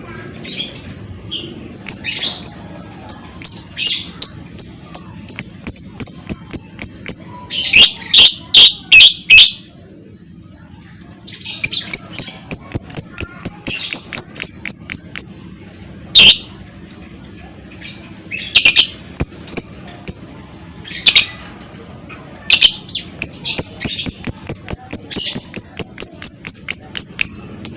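Lovebird singing: quick runs of sharp, high chirps several a second, broken by short pauses, with a few louder harsh chattering bursts.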